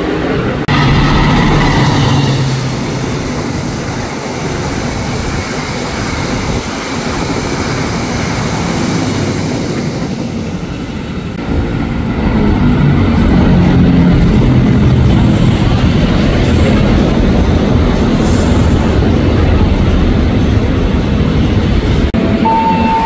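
Rumble of electric commuter trains on the tracks, louder and deeper from about halfway through. Right at the end a KRL train's horn starts sounding, two steady notes.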